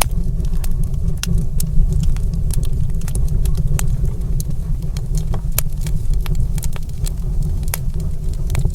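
Crackling wood fire in a stone fireplace: frequent, irregular sharp pops and snaps over a steady low rumble.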